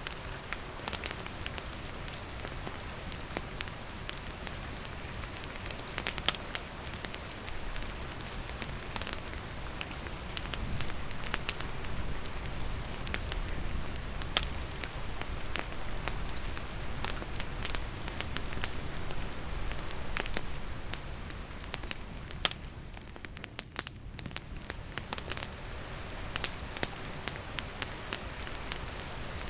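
Wood campfire crackling and popping over steady rainfall, the sharp pops of the burning wood scattered irregularly through a continuous rain hiss.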